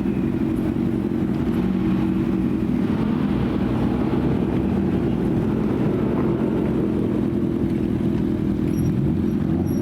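Car engine idling with a steady, deep exhaust rumble that holds even throughout.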